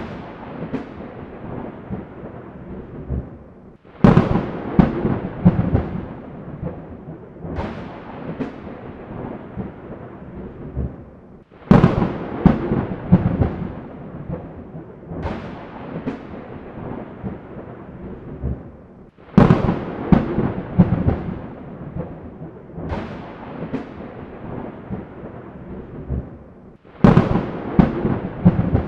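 Thunder cracks, one every few seconds, each starting with a sudden loud crack and trailing off into a rumble over a continuous storm noise.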